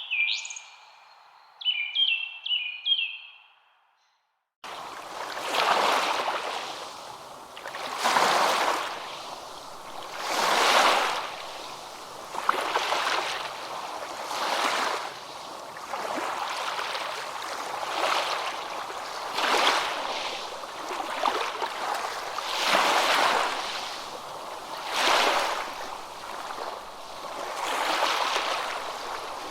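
A few short, upward-sweeping bird chirps in the first three seconds. After a brief silence, surf comes in suddenly: waves washing in and out, swelling and falling every two to three seconds.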